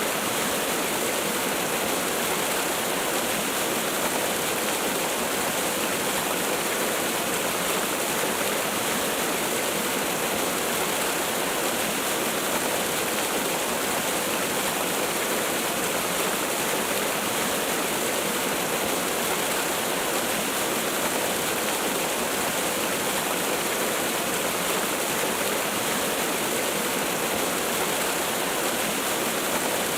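Waterfall: a steady, unchanging rush of falling water, hissy and full across the highs.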